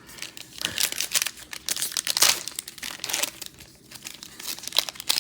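Plastic trading-card pack wrapper crinkling and tearing as a pack of football cards is opened, in quick irregular crackles that are loudest about two seconds in.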